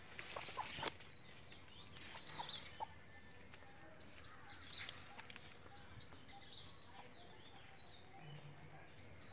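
Small garden bird chirping in short, high-pitched phrases of quick falling notes, repeated every second or two, with a pause of about two seconds near the end.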